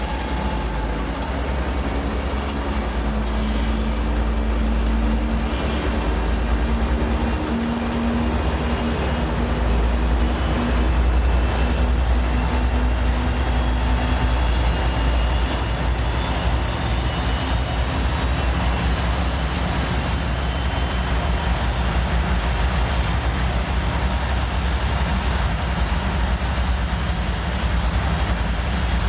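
Train running on the line: a steady heavy rumble, with a thin high whine that climbs slowly in pitch through the second half.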